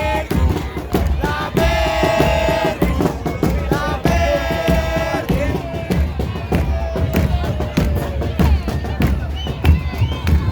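Murga drum section of bombos con platillo playing a fast driving beat, with long held pitched notes sounding over it twice and crowd voices in the mix.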